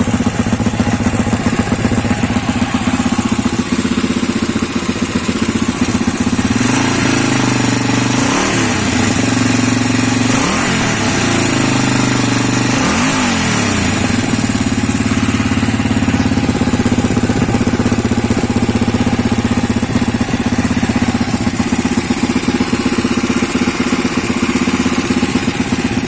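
Honda 350 engine running through an FMF Megamax exhaust: it idles, is revved up three times in the middle, then settles back to a steady idle.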